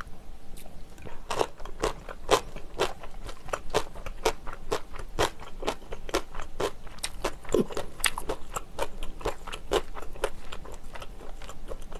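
Close-miked chewing of jjamppong, with wet mouth clicks and smacks coming irregularly a few times a second.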